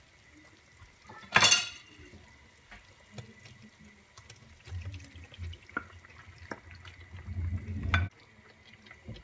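Kitchen sink sounds: a short loud gush of water about a second in, then small clinks and a low running sound that stops abruptly near the end.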